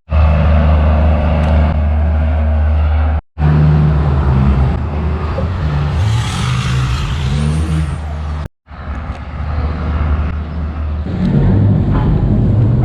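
Large diesel boat engine rumbling low and steady at the pier, with a hissing rush about six seconds in. The sound cuts out abruptly twice.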